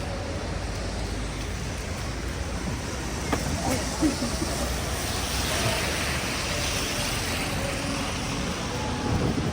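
City street ambience: distant voices and traffic noise, with a couple of short knocks a few seconds in and a hiss that swells and fades around the middle.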